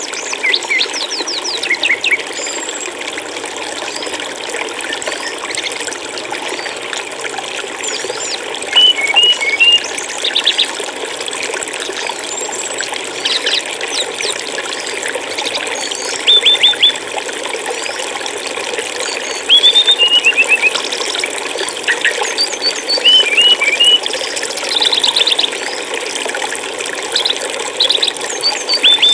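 Steady rush of flowing stream water, with small songbirds calling over it. Every few seconds there are short runs of quick, high chirps and trills, some louder than the water.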